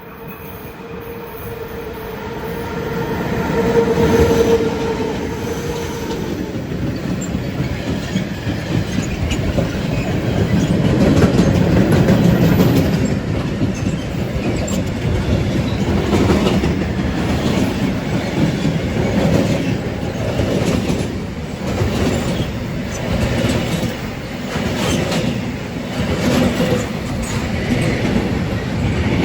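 Electric train passing close by: it grows louder over the first few seconds with a steady tone from the locomotive, then the wheels click rhythmically over the rail joints as the cars roll past.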